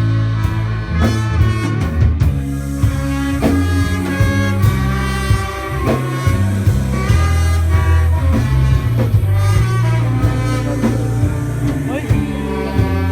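Live instrumental band playing: electric bass and drum kit under held horn lines from a saxophone, trombone and trumpet section.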